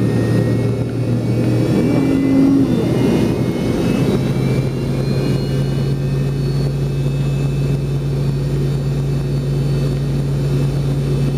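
Rear-mounted Pratt & Whitney JT8D turbofan of an MD-88 running just after engine start, heard from inside the rear cabin as a steady low hum and rumble. The hum steps up in pitch about four and a half seconds in.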